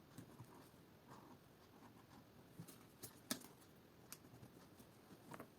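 Near silence, broken by a few faint light clicks and taps from handling at the workbench; the sharpest comes just over three seconds in.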